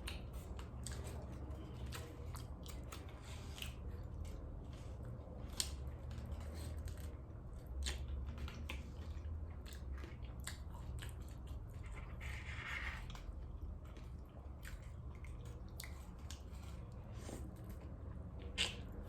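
Close-miked eating of a birria taco: biting and chewing with wet mouth smacks and scattered crunches, over a steady low hum.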